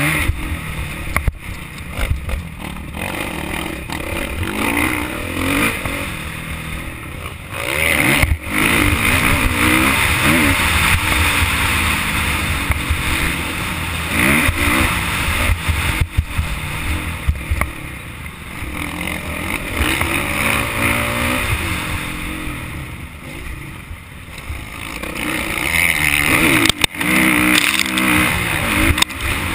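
Motocross bike engine revving up and falling back again and again, as when riding a track, with a few sharp knocks along the way.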